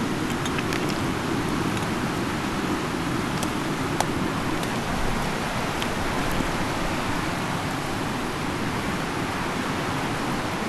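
Rushing mountain river: a steady rush of water, with a few faint clicks and a sharper tick about four seconds in.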